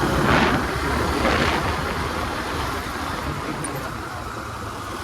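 Road and wind rumble from a vehicle on the move, with two short swells of hiss about half a second and a second and a half in.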